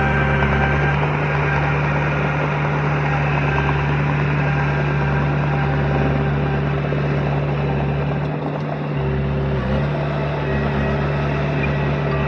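Diesel engine of heavy earthmoving equipment running steadily with a deep, even drone, easing off briefly about eight and a half seconds in.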